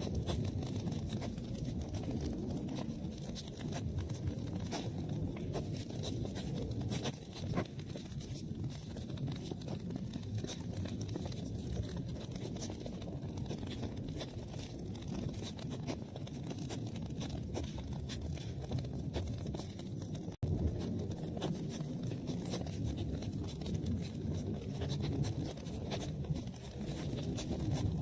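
Wood fire burning in a fireplace, crackling: frequent small sharp pops and snaps over a steady low rumble of the flames. The sound drops out for an instant about twenty seconds in.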